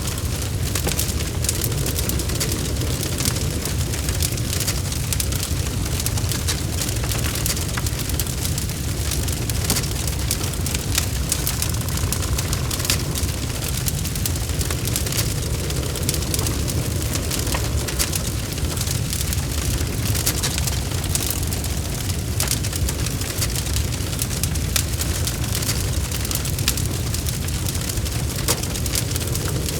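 Logs burning in a fireplace: a steady low rumble of flames with frequent sharp crackles and pops from the wood.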